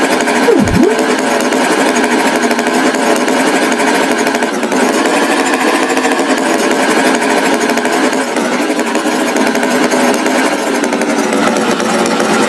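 Steady, loud buzzing mechanical noise like a running tractor engine, with a brief swooping tone that dips low and rises back just under a second in.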